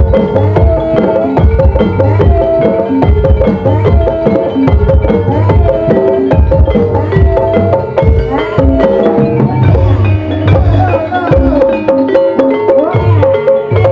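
Live Javanese gamelan music for an ebeg dance: kendang hand-drum strokes driving a steady rhythm under interlocking notes from struck keyed instruments.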